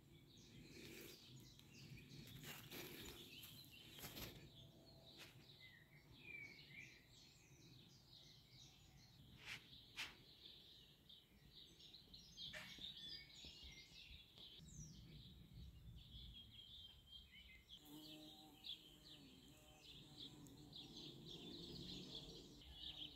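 Faint birdsong: small birds chirping and twittering on and off, with a few soft clicks.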